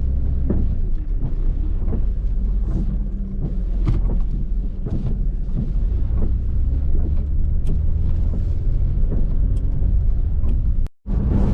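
Pontiac Firebird engine running steadily under way, with road and tyre noise and scattered light ticks. The sound cuts out for an instant near the end.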